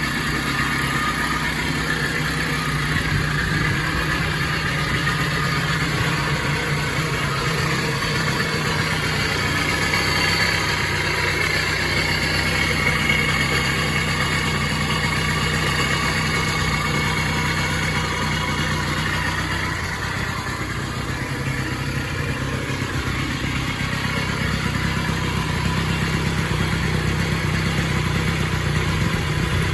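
Single-cylinder two-stroke engine of a 1976 Pacer moped idling steadily through its exhaust, dipping a little about two-thirds of the way through before settling back.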